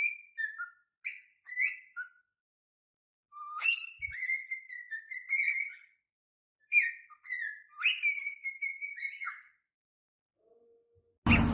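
A pet parrot whistling in three short phrases of gliding, tuneful notes with short pauses between them.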